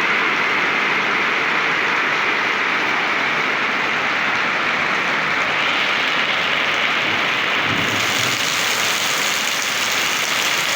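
Heavy rain pouring down in a steady loud hiss, turning brighter about eight seconds in.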